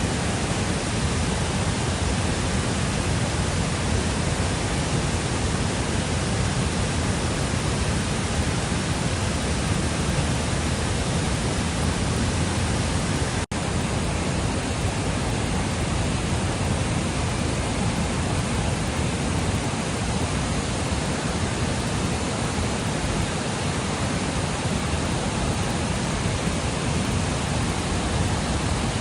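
Steady rush of fast-flowing water, as from a river or waterfall, cutting out for an instant about halfway through.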